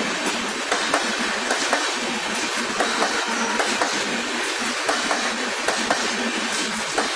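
Maitree Express passenger train running, a steady rumbling noise with rapid, irregular clicks of the coach wheels over the rail joints.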